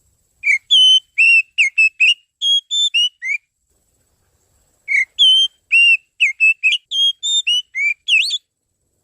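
Oriental magpie-robin (kacer) song: two quick phrases of varied clear whistled notes, each about three seconds long, with a short pause between them. The second phrase ends in a rising sweep.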